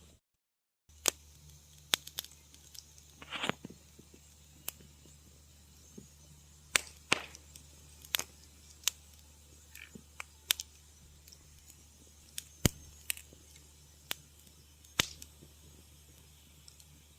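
Wood fire crackling in a fireplace: irregular sharp pops and snaps over a faint steady low hum. The sound drops out to silence for about a second just after the start.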